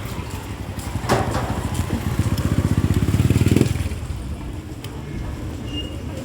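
Street noise heard from a moving bicycle: a rapid, low pulsing rumble builds from about a second in and cuts off suddenly halfway through, over a steady rush, with a few sharp clicks near the end.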